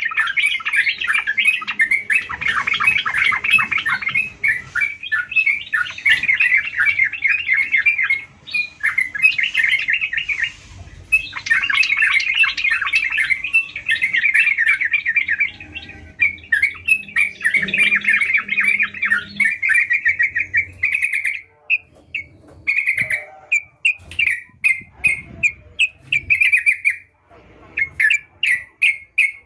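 Yellow-vented bulbul (trucukan) singing in long, fast runs of bubbly chattering notes. The runs break into shorter separate notes about two-thirds of the way through.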